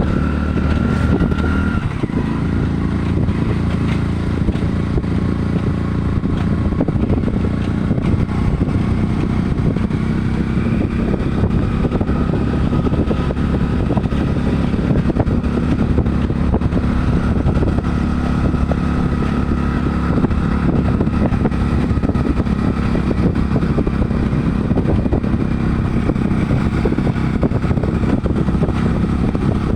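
A motor engine running steadily, its pitch shifting only slightly.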